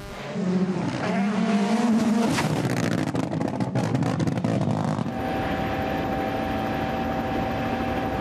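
Rally car engine revving, its note rising, then a stretch of rapid crackling. About five seconds in the sound changes abruptly to a steady, even engine drone.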